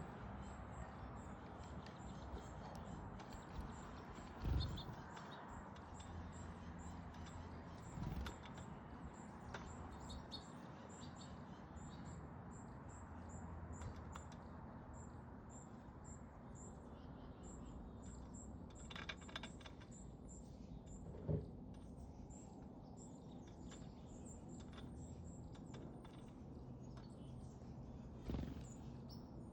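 Small backyard songbirds at a feeder giving many short, high-pitched chirps, faint and scattered throughout. A few soft knocks stand out, about four and a half seconds in, at eight seconds, around twenty-one seconds and near the end.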